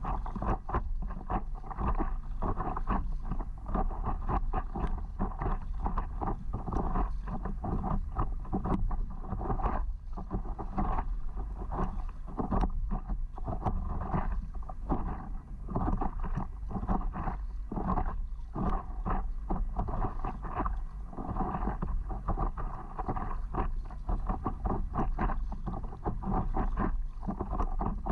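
Water lapping and splashing against a stand-up paddleboard under way, in many quick irregular slaps, over a steady low wind rumble on the microphone.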